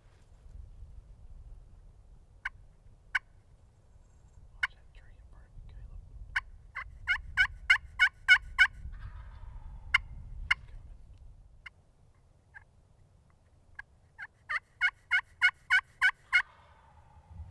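Wild turkey yelps: a few single yelps, then a fast run of about six, and later a run of about eight, each note breaking sharply in pitch. A low wind rumble on the microphone underlies the first two-thirds.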